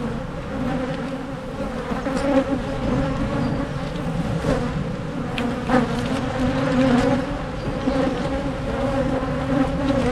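Honeybees buzzing densely around an open hive during an inspection: a steady, wavering low hum from many bees, with a few faint knocks from the hive's frames.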